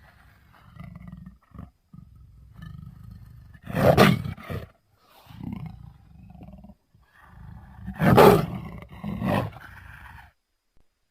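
Indian leopard calling: two loud, rasping calls about four seconds apart, each followed by softer grunts, with low rumbling breaths between them; the calls stop near the end.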